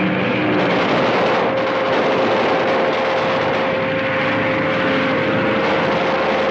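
A loud, steady engine drone with a held whine.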